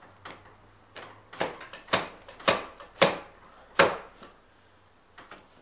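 Sharp knocks as the new laminated pine bottom rail is tapped home into the joints of an old wooden sash window: about seven uneven strikes on the wood.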